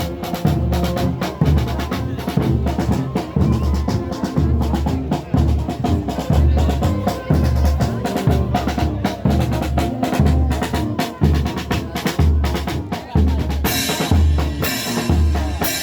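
Drum-led music with a steady bass-drum beat and snare hits. A bright hiss joins it near the end.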